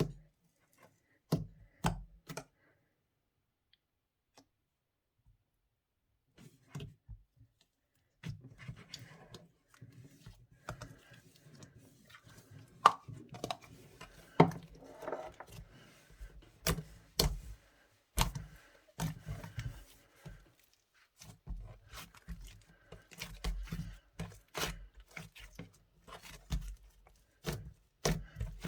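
Hands squishing, pressing and stretching a slightly sticky slime mixed with light clay, giving irregular sharp clicks and pops. Only a few clicks at first, then almost continuous from about eight seconds in.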